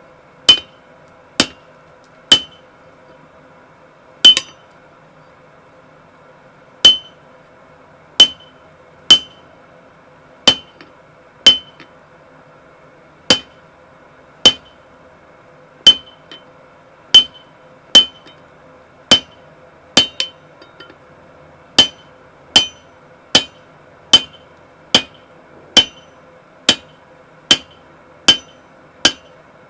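Blacksmith's hammer striking steel on an anvil: about thirty single ringing blows. They come unevenly at first and then at a steady pace of roughly one a second, over a faint steady hum.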